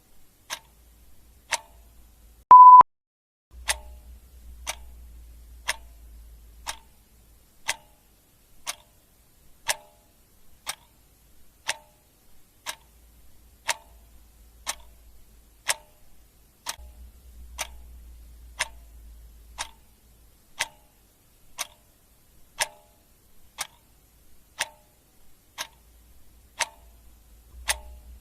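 Clock ticking steadily, about one tick a second, with a single short high beep about two and a half seconds in.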